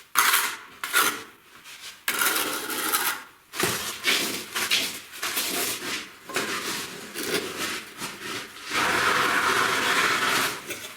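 Irregular scraping and rubbing strokes of a hand tool on masonry, with a steadier rushing sound from about nine seconds in.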